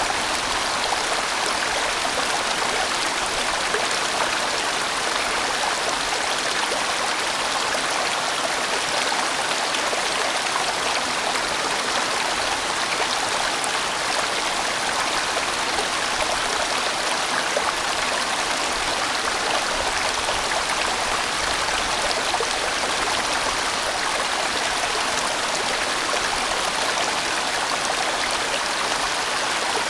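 A sizeable mountain-valley stream flowing and splashing in a steady, even rush of water.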